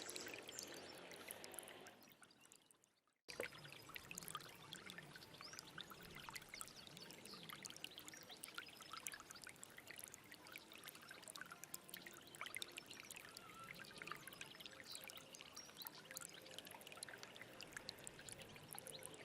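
Small stream babbling and trickling over stones, with many small splashes. About two seconds in it fades away almost to silence, then cuts back in abruptly a second later, like a loop splice.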